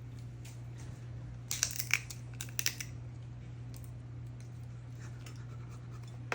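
Snow crab shell being cracked and pulled apart by hand: a short cluster of sharp cracks and snaps about a second and a half in, with a few lighter clicks later.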